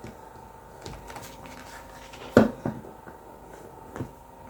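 Quiet room tone with a faint steady hum and a few short soft knocks or clicks, the loudest about two and a half seconds in.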